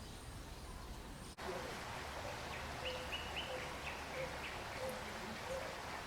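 Forest birds calling: a run of short, evenly repeated notes, some low and some high, over a steady background hiss, starting about a second and a half in.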